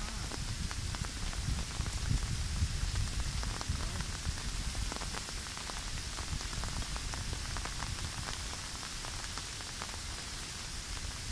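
Steady rain, with many close drops tapping and a low wind rumble buffeting the microphone.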